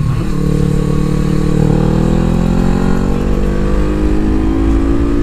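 Suzuki GS500's air-cooled parallel-twin engine accelerating hard in one gear, its pitch rising smoothly and steadily, heard from on board the bike. The pull is progressive.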